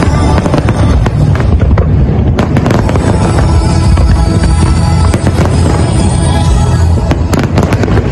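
Aerial fireworks display: a continuous deep booming with many sharp bangs and crackles, and a dense cluster of cracks near the end, over music.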